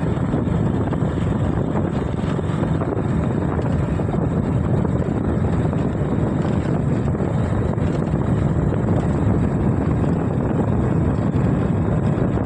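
Steady low rushing rumble of a moving bike ride: wind buffeting the microphone over road and vehicle noise, with no breaks.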